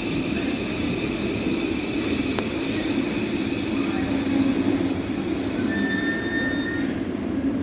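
Electric train noise: a steady rumble with a low hum. A single click comes a little over two seconds in, and a short high whine sounds near the end.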